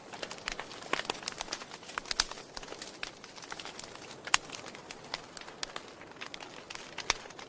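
Wood fire burning in a fireplace, crackling: irregular sharp pops and snaps over a steady soft hiss, with the loudest pops about two seconds in and again just after four seconds.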